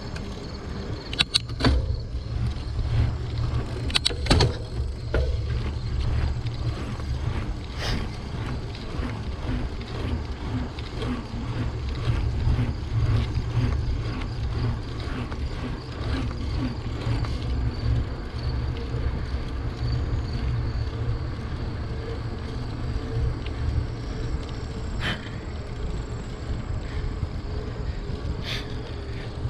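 Wind rumbling over the microphone of a moving bicycle, with tyre and road noise and a few sharp knocks from the bike, the clearest between about one and four seconds in.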